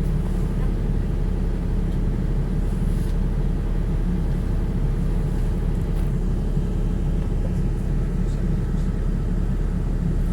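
Ferry engine running with a steady low rumble.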